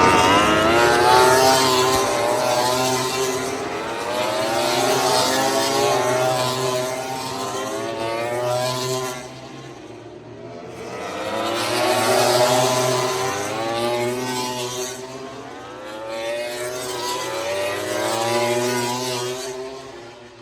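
Racing motorcycles passing at high revs, several engines at once, their notes rising and falling with gear changes. The sound swells and fades in waves, with a lull about halfway through before the next group comes by.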